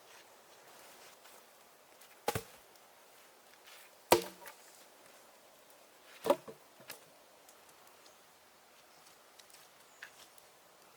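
Three sharp strikes on wood, about two seconds apart, each with a brief ringing tail, the kind a hatchet or axe makes chopping wood.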